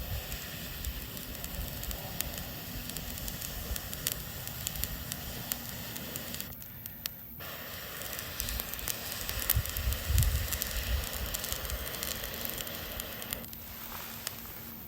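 Wood campfire burning, with scattered sharp crackles and pops over a steady hiss. A brief low rumble comes about ten seconds in.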